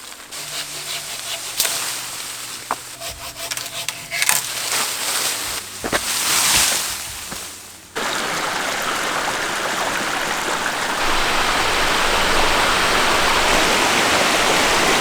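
Rushing water of a creek tumbling over rocks at a waterfall, a steady rush that comes in abruptly about halfway through. Before it there are scattered knocks and mixed noises.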